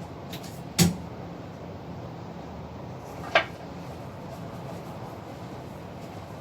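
Two short knocks about two and a half seconds apart, the first a duller thud and the loudest, over a steady low hum.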